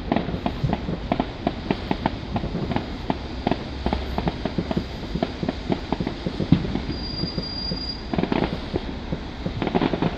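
Fireworks going off in a dense barrage of irregular pops and crackles, with thicker clusters of bangs near the end. A short high whistle sounds about seven seconds in.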